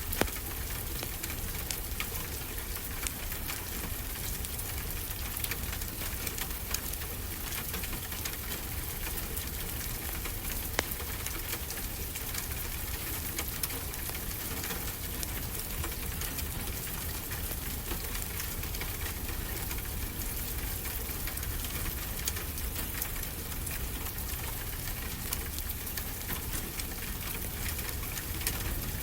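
Wood fire crackling, with frequent small pops over a steady hiss of ocean surf.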